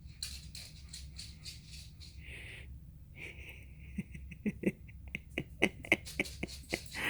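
A tired dog panting, quick breathy pants that come faster and louder in the second half, with light clicks mixed in.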